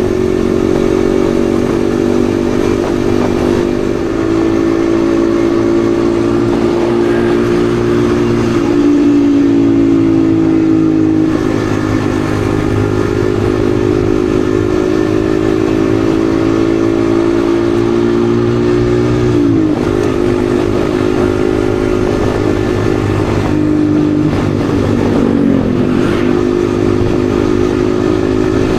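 Yamaha XSR155's single-cylinder engine running steadily under way, its pitch dropping briefly and picking up again a few times as the rider changes speed.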